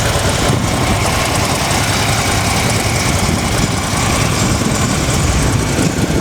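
2015 Harley-Davidson Ultra Classic Low's 103 cubic inch V-twin idling steadily.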